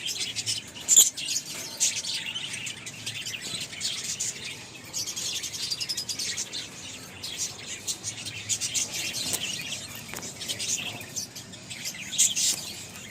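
Pet lovebirds chirping in a dense, continuous chatter of high, rapid chirps, with one sharp click about a second in.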